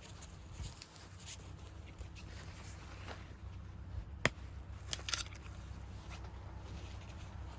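Wood fire in a fire pit crackling, with scattered sharp pops, one loud snap about four seconds in and a quick cluster just after, over a low steady rumble.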